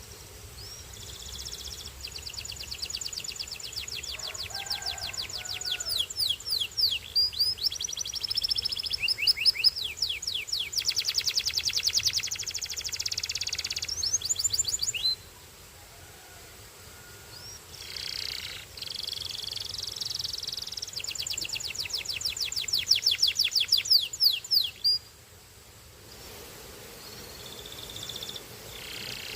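Belgian canary singing in long, high-pitched runs of rapid trills and repeated chirps. It sings two long phrases with a pause of a few seconds between them.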